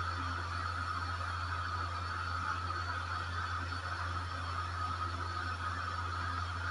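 A steady low hum with a fainter high whine above it, unchanging throughout, like a small motor or appliance running, with no knife chops heard.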